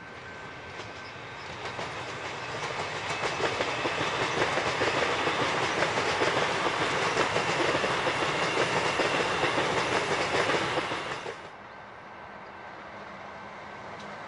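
Melbourne suburban electric train, a Siemens multiple unit, passing close by. It gets louder over the first few seconds, then holds steady with the rhythmic clatter of wheels over the rail joints. The sound cuts off abruptly about eleven seconds in, leaving a much fainter steady rumble.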